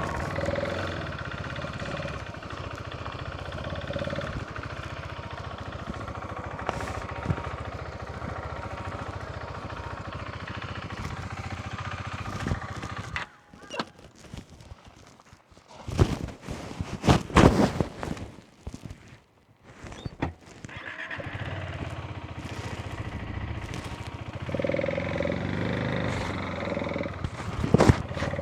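Motorcycle engine running on the move. It drops out about halfway through, leaving a few seconds of quiet broken by several loud knocks, and then comes back toward the end.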